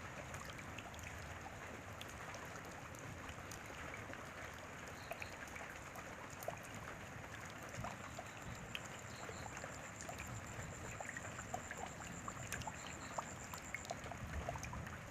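Rain falling steadily, with many scattered drops ticking close by. A thin, steady high-pitched tone sounds from about halfway through until just before the end, and a few faint, short paired chirps are heard now and then.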